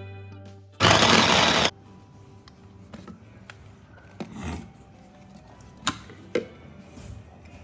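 Food chopper mincing cooked beef, running in one short burst of just under a second, followed by a few light clicks and taps.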